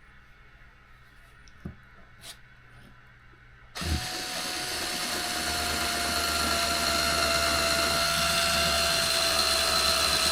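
Small electric screwdriver driving a screw, its motor running with a steady whine for about seven seconds and starting a few seconds in. A couple of small clicks come before it.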